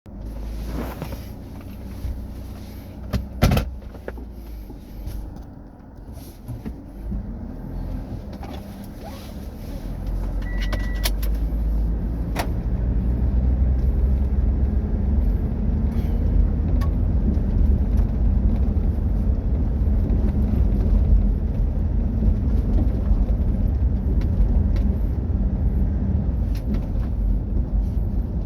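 Mitsubishi Triton rally truck being driven off-road: a low engine and road rumble that grows louder and steadier about ten seconds in, after a few sharp clicks and knocks in the first seconds.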